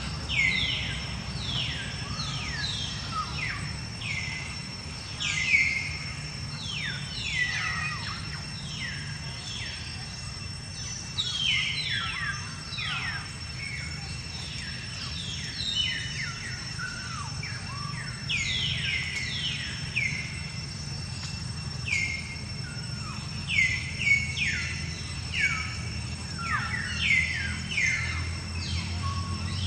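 Birds chirping in a chorus: many short calls, each sliding quickly downward in pitch, overlapping and repeating throughout, over a steady low background rumble.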